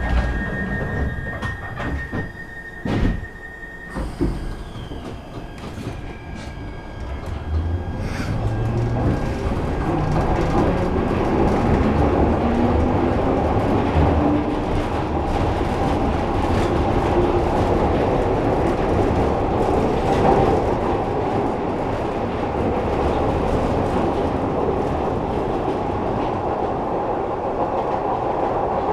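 Glasgow Subway train pulling away: a door-warning tone sounds until the doors shut with a knock about three seconds in. Then the motors whine, rising in pitch as the train picks up speed, under a steady rumble of wheels on rail.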